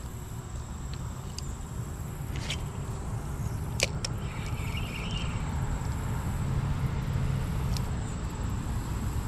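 Steady low rumble of road traffic from a nearby highway, with a few sharp clicks about two and a half and four seconds in.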